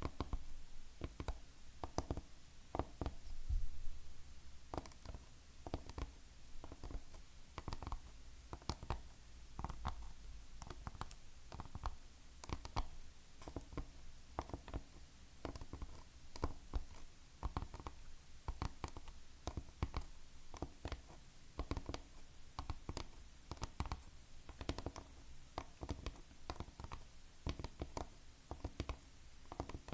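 Fingernails tapping and clicking on hard objects in quick, irregular strokes, a few taps a second.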